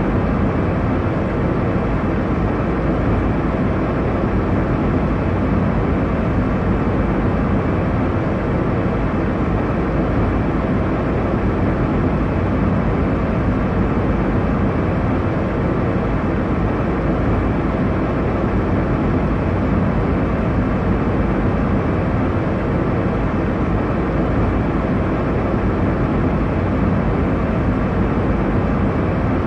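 Airliner cabin noise: a steady, unbroken rush, strongest in the low and middle range, with no changes or distinct events.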